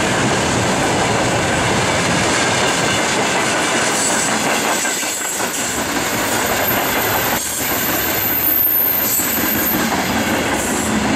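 Freight train wagons (tank cars, then gondolas and a boxcar) rolling past close by: a steady rumble and clatter of steel wheels on the rails. From about four seconds in, a thin high-pitched wheel squeal runs for about six seconds.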